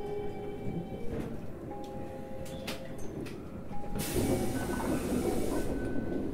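Inside a Toei 5300 series electric train: low running rumble with faint steady tones and a few sharp clicks. About four seconds in comes a loud burst of compressed-air hiss lasting under two seconds.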